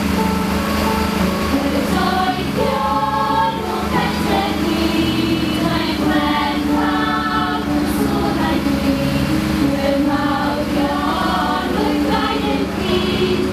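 Choral singing with a steady low hum underneath.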